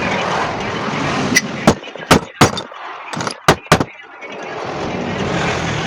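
A run of about seven sharp knocks, irregularly spaced over roughly two and a half seconds, starting a little over a second in, over a steady background rumble and hiss.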